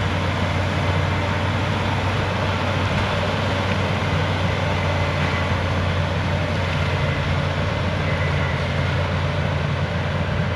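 Cat D6H crawler bulldozer's diesel engine running steadily under load, a constant low drone with a broad rumble over it.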